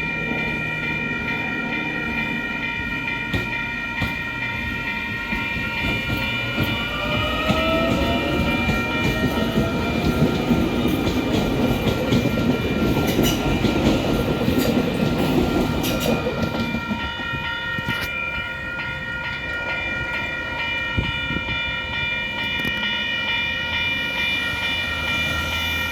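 Level crossing's Western-Cullen-Hayes electronic bells ringing steadily while a train passes over the crossing. The train's rumble and wheel clatter build, peak about halfway through and die away, with a brief rising tone at about seven seconds.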